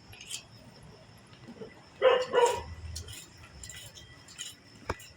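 A dog barking twice in quick succession, about two seconds in, followed later by a single sharp click.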